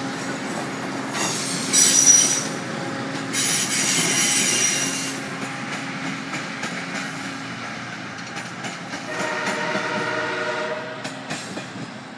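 MARC bilevel commuter train rolling past and pulling away, with a steady rumble that fades as it recedes. The steel wheels squeal high-pitched twice in the first five seconds, and a horn sounds for about two seconds around nine seconds in, followed by a few clicks of wheels over rail joints.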